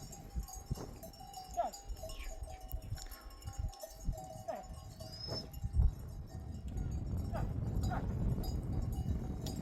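Bells on grazing livestock clinking and ringing, with several short falling animal calls and one sharp thump about halfway through.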